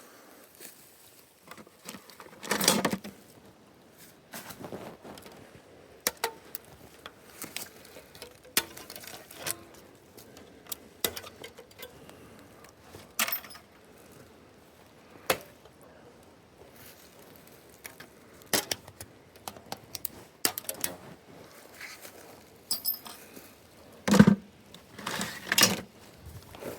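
Irregular clicks, clinks and short knocks of small parts and hand tools being handled, with louder knocks about three seconds in and again near the end.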